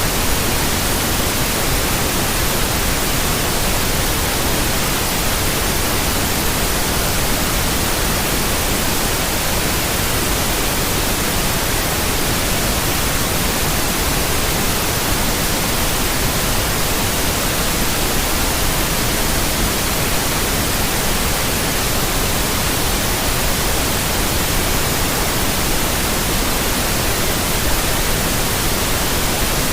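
Steady white noise: an even, unchanging hiss spread across the whole range from lowest to highest pitches.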